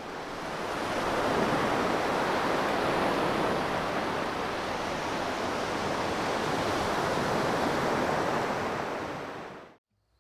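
Steady rushing noise that fades in over the first second, holds, and fades out to silence near the end.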